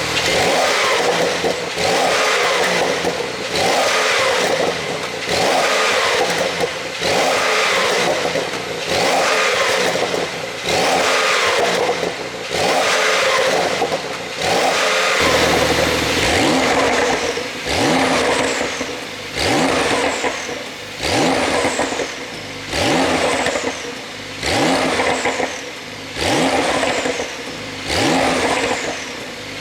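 Porsche 911 Carrera 4 GTS's twin-turbo flat-six revved again and again in short blips, about one every second and a half, each rev rising and falling back, on an ECU tune made for exhaust pops on the overrun.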